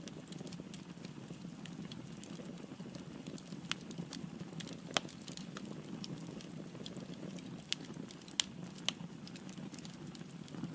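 Firewood burning in a fireplace: a steady low rumble of flame with frequent sharp crackles and pops scattered throughout, a few louder pops standing out.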